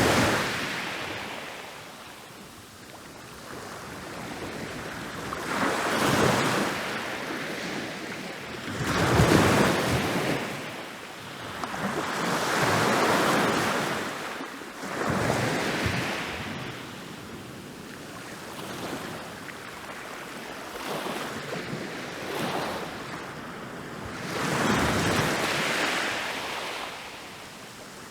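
Ocean waves breaking on a beach, each surge swelling and washing back in turn, about one every three to four seconds.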